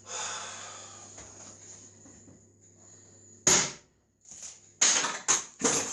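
A few sharp knocks: one about three and a half seconds in, then three in quick succession near the end.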